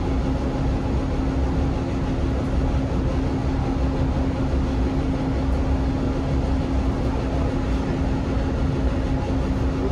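Passenger train running at a steady speed: an even, low running noise with one constant hum throughout.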